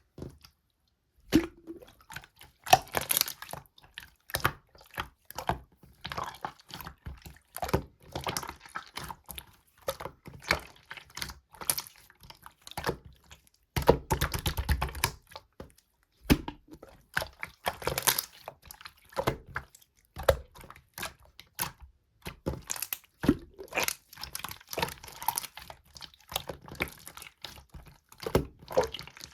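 Slime being squeezed, folded and poked by hand, making irregular sticky clicks, pops and crackles, with a denser, louder stretch of squishing about halfway through.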